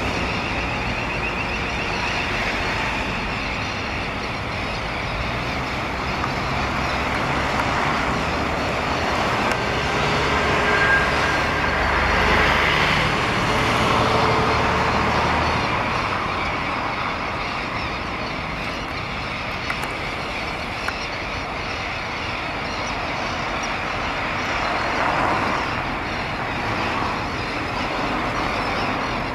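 Dense, continuous chorus of many South American terns calling at a nesting colony, overlapping into a steady harsh din. A low engine rumble joins in for several seconds mid-way.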